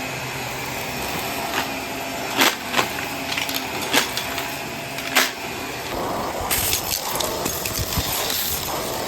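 Vacuum cleaner running steadily while it picks up a spread-out debris mix, with sharp clicks and rattles as pieces are sucked in, a few louder ones in the middle, and a rougher hiss toward the end.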